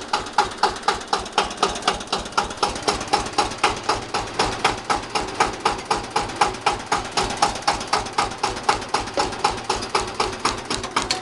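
Bautz AS 122 tractor's 12 hp single-cylinder diesel running steadily, an even chugging knock of about four to five beats a second.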